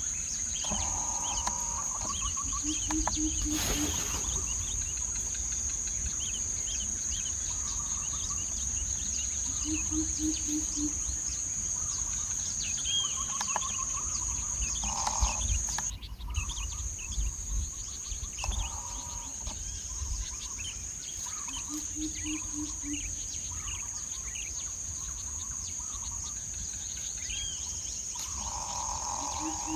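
Insects droning steadily in a high, unbroken note, with scattered bird chirps and calls. A short run of low, evenly spaced hoots comes four times.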